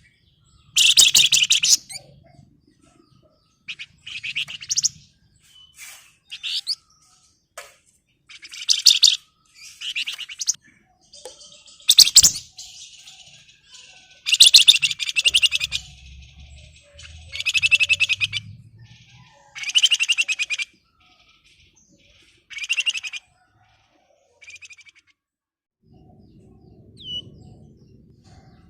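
Flamboyan songbird singing in repeated high, rapid, rattling trill bursts (ngebren), each about a second long, a dozen or so with short pauses between them.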